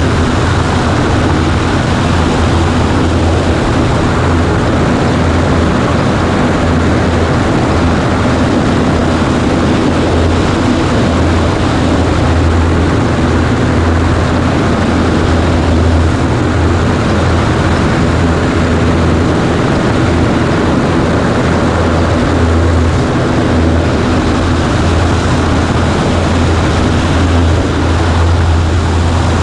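Cessna 140A's piston engine and propeller running steadily, a loud, unchanging drone with a strong low hum.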